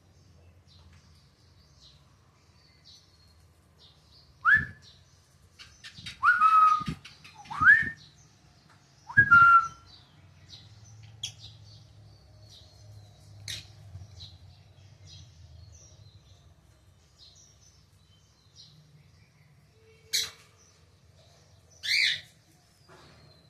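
Pet lovebirds calling: a cluster of four loud short calls that sweep in pitch about four to ten seconds in, quieter chirps scattered throughout, and two more sharp calls near the end, over a faint low hum.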